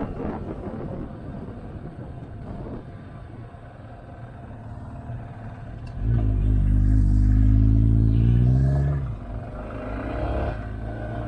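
Motorcycle engine running under light throttle with wind noise, then opened up about six seconds in: the revs climb for about three seconds and drop off sharply as the throttle closes.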